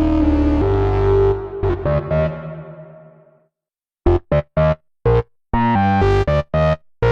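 Waldorf Pulse 2 monophonic analog synthesizer playing preset patches: a held low note with a few notes over it fades out over about two seconds, and after a brief silence a new patch plays short, clipped notes in a quick pattern.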